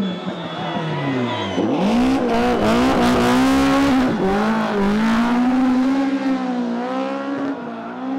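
Rally car engine coming off the throttle, its note dropping, then accelerating hard with quick gear changes; a hiss of tyre noise rises with it before the engine settles to a steadier high note.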